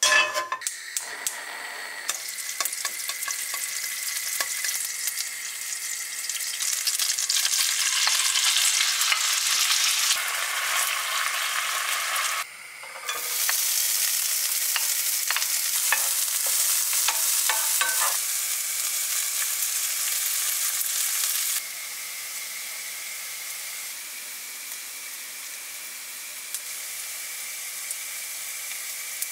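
Food sizzling in a frying pan as sliced onions fry in butter and oil, with scrapes and taps from a wooden spoon stirring them. The sizzle breaks off briefly about twelve seconds in, and drops to a quieter level about twenty-one seconds in.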